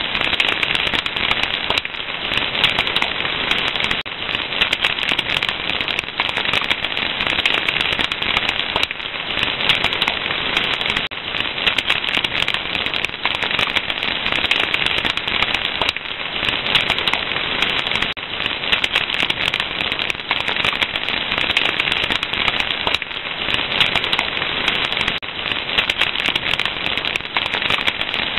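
Wood fire crackling: a steady dense hiss full of small pops and snaps, with no pauses.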